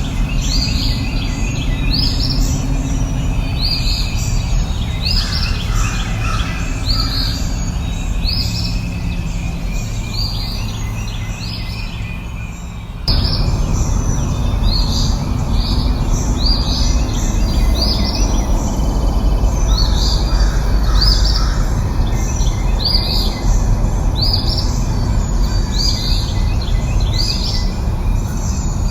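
Songbirds chirping: a repeated short, high, falling note about once a second, with other birds calling, over a steady low rushing background. The whole soundscape jumps abruptly louder just under halfway through.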